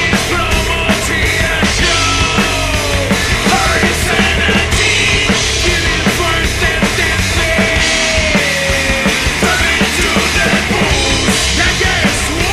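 Loud distorted rock music from a band with a full drum kit. A lead line bends up and down in pitch over a steady, heavy beat.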